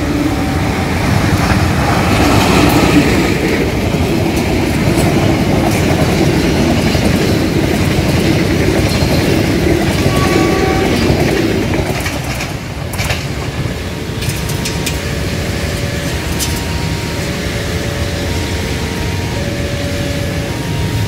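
Passenger train hauled by a CC 201-class diesel-electric locomotive running past close by. The loud train noise drops off about twelve seconds in as the last coaches go by.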